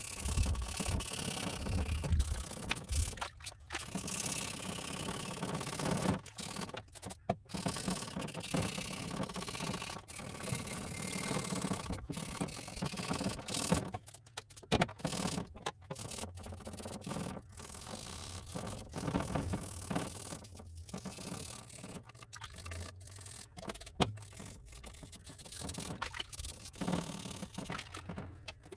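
Hand scrubbing and scraping: rubbing strokes in long stretches, broken again and again by short pauses.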